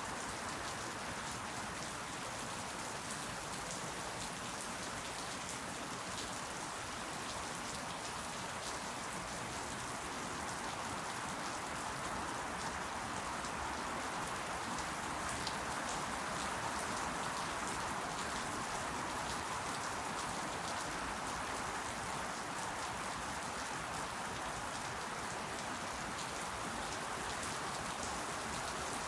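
Steady rain falling: an even hiss with many fine drop ticks throughout.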